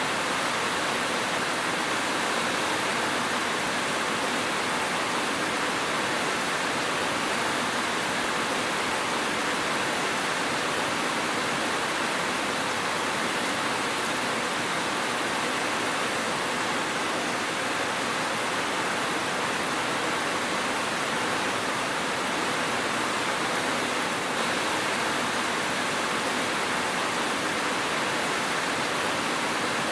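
Steady rain falling, a dense even hiss of drops with no thunder or separate drips standing out.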